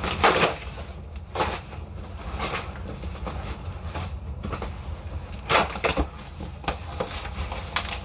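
Packaging being handled: irregular scrapes, rustles and crunches of cardboard and styrofoam packing, with the loudest strokes near the start and about five and a half seconds in.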